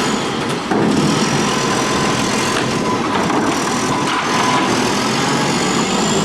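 Garbage truck engine revved up to drive the hydraulics through a full eject, with a faint high whine slowly rising in pitch. The engine note picks up sharply under a second in.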